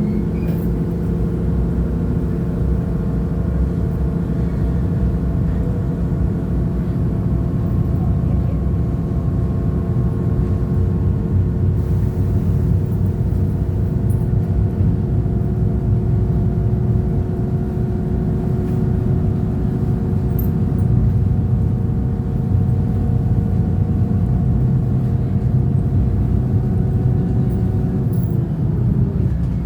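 CP diesel multiple unit UDD 0467 under way, heard on board: a steady diesel engine drone over the rumble of the wheels on the track. The engine tones drop in pitch near the end.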